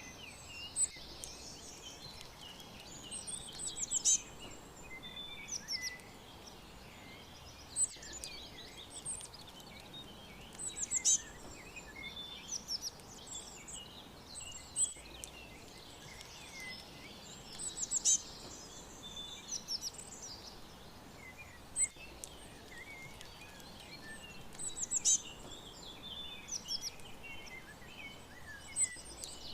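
Several songbirds chirping and trilling in a chorus of short high notes and quick runs, some louder calls standing out every few seconds, over a steady background hiss.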